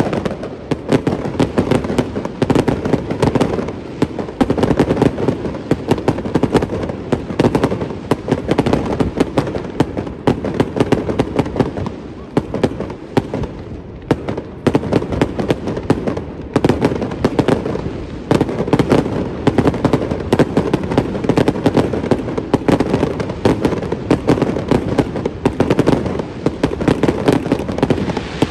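Fireworks display: a dense, continuous barrage of rapid bangs and crackling over low booms, with no let-up.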